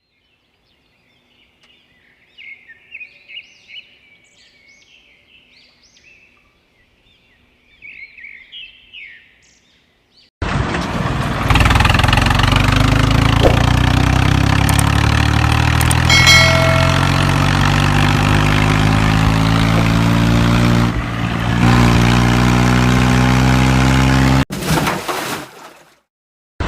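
Birds chirping faintly for about ten seconds. Then a vehicle engine comes in suddenly and loud, running with its pitch rising slowly and steadily, and cuts off abruptly near the end.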